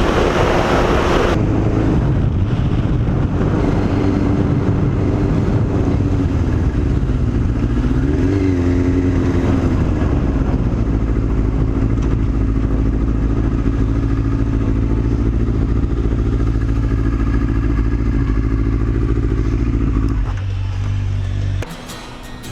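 A 600 cc inline-four sport-bike engine runs at a steady cruising speed. About a third of the way in, its pitch dips and climbs again with a change of throttle. The engine sound drops away near the end.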